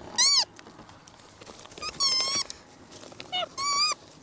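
Capuchin monkeys giving three high-pitched squealing calls, each about half a second long, rising then falling in pitch: one just at the start, one about two seconds in, and one near the end.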